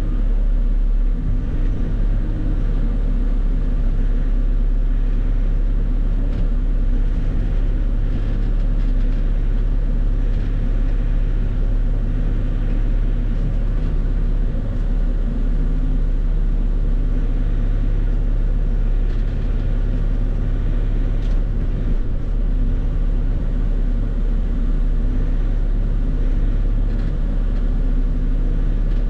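Bobcat E50 compact excavator's diesel engine running steadily while the machine works, a continuous low drone.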